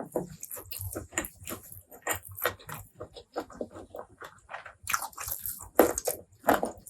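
Close-miked eating: wet biting and chewing, with irregular smacking and crunchy clicks and a few louder bites in the second half.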